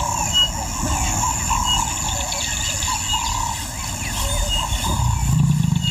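Bush ambience: small birds chirping in short repeated calls over a steady high insect buzz. Near the end, a low rumbling sound begins.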